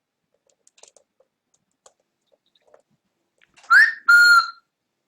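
Cockatiel whistling two loud notes about three-quarters in: a short rising whistle, then a steady one held about half a second. Faint light clicks come before it.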